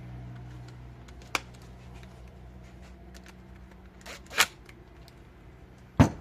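Hand tools and brake caliper parts being handled: a few sharp clicks and knocks, single ones about a second in, a pair about four seconds in, and the loudest one near the end.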